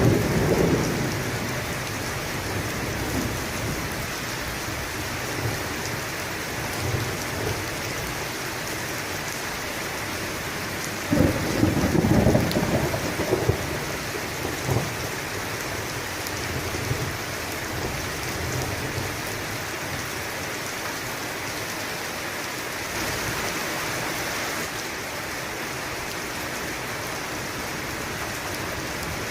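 Steady rain with rolling thunder. A louder rumble comes about eleven seconds in and lasts two or three seconds, with fainter rumbles at other times.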